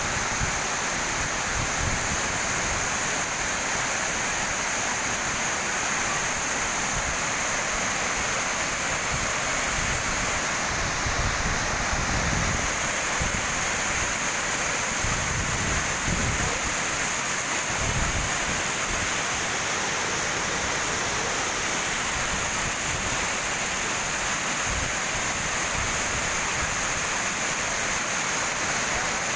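A waterfall's steady rush of falling water, with low buffeting from wind on the microphone now and then.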